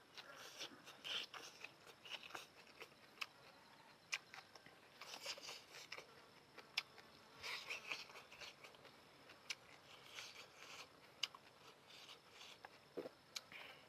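Close-miked eating of noodles: faint, irregular mouth clicks and short hissy, wet bursts of chewing and slurping, scattered unevenly with small pauses.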